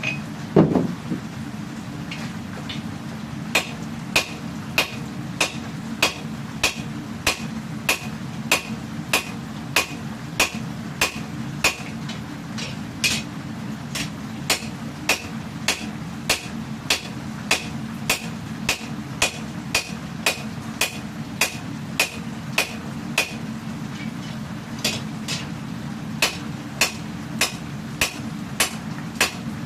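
Hammer blows on hot katana steel at an anvil, steady and ringing, about one and a half strikes a second, with a short pause near the end. A loud clank comes about half a second in, and a steady low roar from the gas forge runs underneath.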